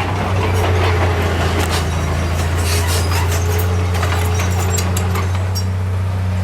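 Heavy diesel engine of earthmoving equipment running steadily, with scattered rattles and clanks over the engine hum.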